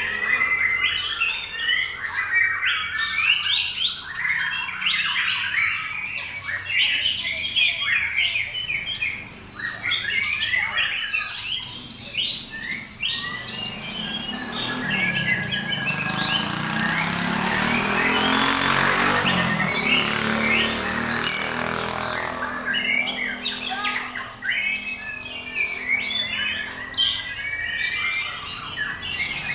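Several caged white-rumped shamas (murai batu) sing at once in a singing contest, a dense overlapping stream of fast chirps, whistles and trills. Through the middle a rushing noise with a low hum swells and then fades.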